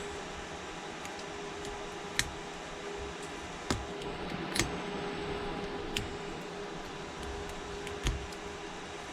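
A tool picking at broken back glass on an iPhone XS Max: about five sharp clicks at irregular intervals, over a steady background hum.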